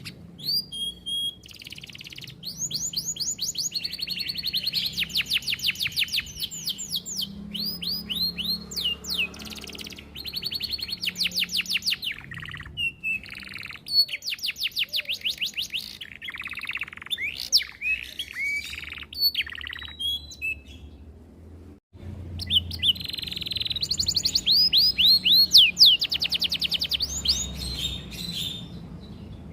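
Domestic canary singing a long, varied song of fast rolls and trills: runs of rapidly repeated downward-sweeping notes, changing from phrase to phrase, with a short break a little past the twenty-second mark before it starts again. A faint low hum runs underneath.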